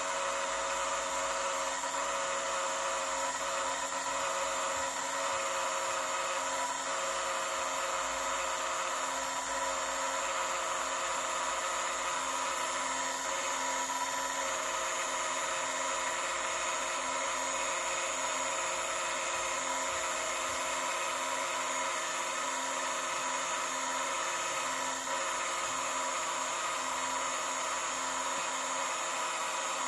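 An electric motor running steadily with a constant whine, its pitch and level unchanging throughout.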